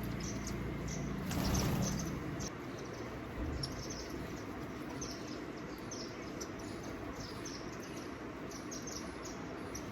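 Small birds chirping in short, high, scattered chirps over a steady outdoor background hiss, with a brief louder rush about a second and a half in.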